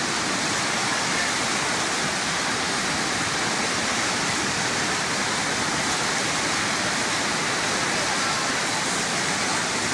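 Fast-flowing floodwater rushing steadily, a continuous even wash of water noise.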